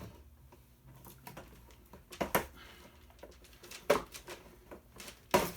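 Plastic parts of a ride-on toy being pried and pulled apart: scattered sharp cracks and knocks, three louder ones a second or two apart.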